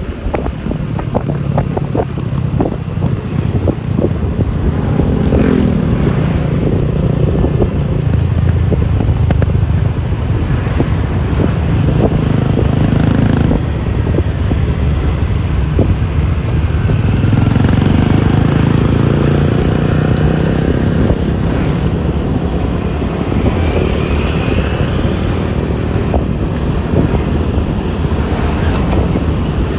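Yamaha Lexi LX 155 scooter's single-cylinder engine running under way, its note rising and falling with the throttle, with wind noise on the microphone and road noise throughout.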